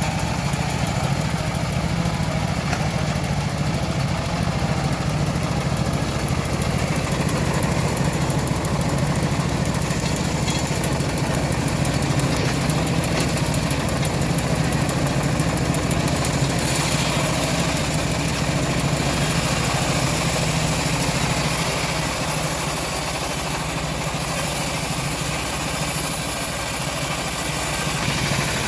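Engine-driven homemade bandsaw mill running steadily with a constant low hum, dipping slightly in level a little after twenty seconds and picking up again near the end.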